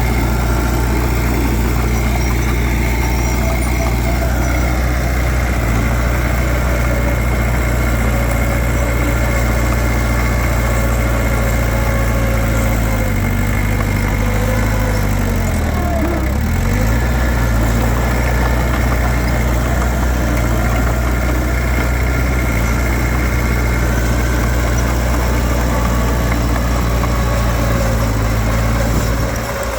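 Heavy diesel engine of a Komatsu D31P bulldozer running steadily. About halfway through, its engine speed sags for a moment and then recovers.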